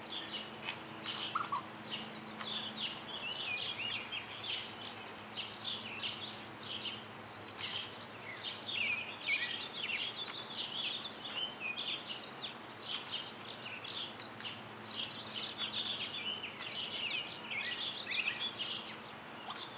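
Several birds chirping and singing at once, a dense run of short high calls and trills, with a faint steady low hum underneath.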